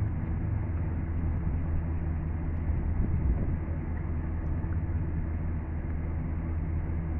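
Steady low drone of an idling vehicle engine.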